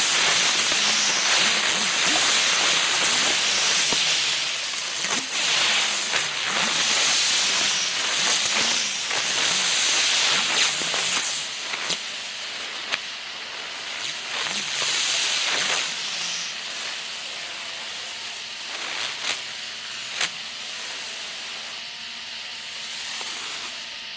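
A mass of sunflower helicopter fireworks burning with a loud, dense spark-spraying hiss. The hiss weakens after about twelve seconds and thins out, with a few sharp pops near the end.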